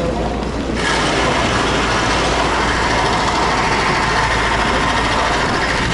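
Steady rumble and hiss of railway platform noise, with a train running nearby. It turns brighter and a little louder about a second in.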